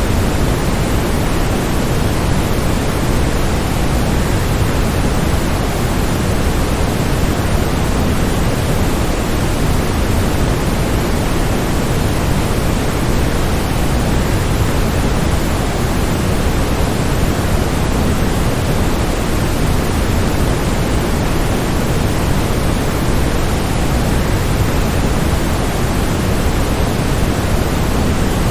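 Steady, unchanging rush of a waterfall, a dense noise that is heaviest in the low end.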